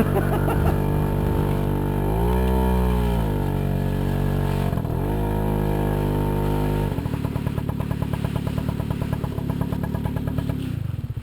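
Moped scooter's small engine revving up and down with the throttle. About seven seconds in it drops to a quick, even pulsing idle, which stops near the end.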